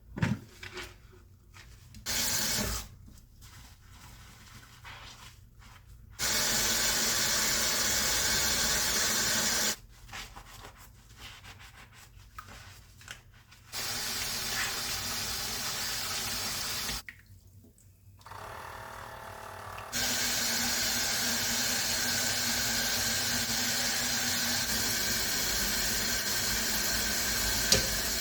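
Tap water running into a sink, turned on and off several times in steady bursts, with the longest run in the second half.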